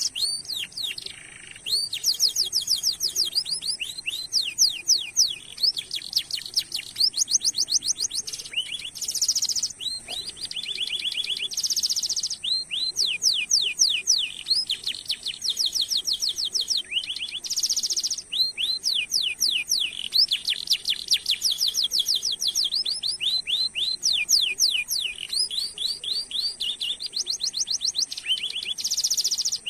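Domestic canary singing: long runs of fast repeated chirps and rolling trills, broken every few seconds by short harsh buzzy notes.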